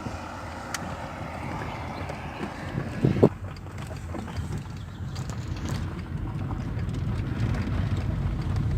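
Car driving along, a steady low road rumble that grows a little louder after about five seconds, with one short thump about three seconds in.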